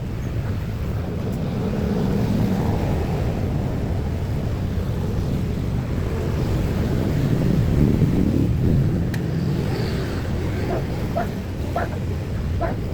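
Road traffic passing: a continuous rumble of vehicles that swells twice, with a few short high chirps near the end.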